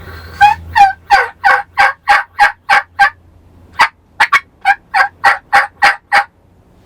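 Turkey yelping: two loud runs of about nine or ten short, sharp yelps each, roughly three a second, with a short pause between the runs.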